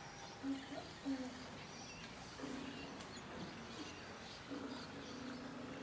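Faint bird chirps over quiet room tone, with short low steady tones coming and going a few times.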